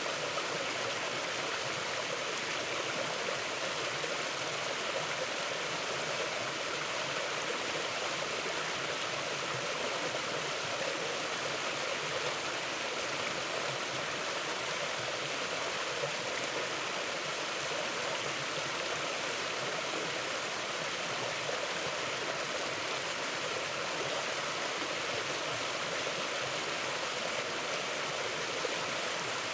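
Mountain river flowing over rocks: a steady, even rush of water with no change.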